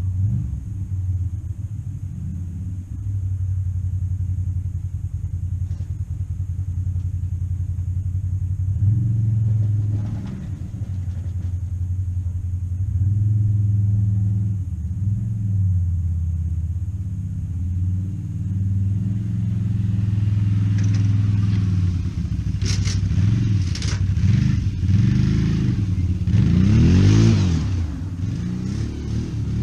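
Vehicle engine running and changing speed, with a few rising and falling revs near the end and some rattling noise over the last third.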